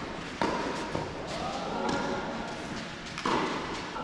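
Tennis balls struck by rackets and bouncing on an indoor court: several sharp hits, the loudest near the start and about three seconds in.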